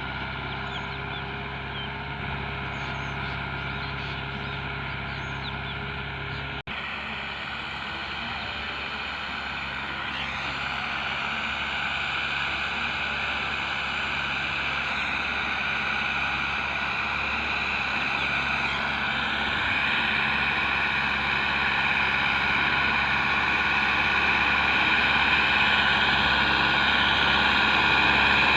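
Tractor engine running steadily, with a split-second dropout about seven seconds in, then growing gradually louder.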